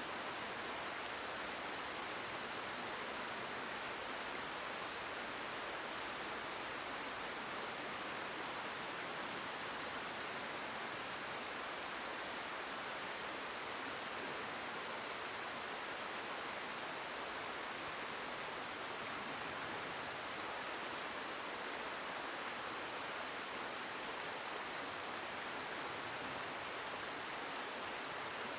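Steady rushing of a flowing river, an even hiss that does not change.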